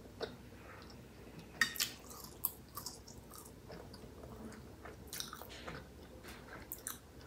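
A person chewing a mouthful of food with the mouth closed: soft, scattered wet smacks and clicks, the strongest a couple of seconds in.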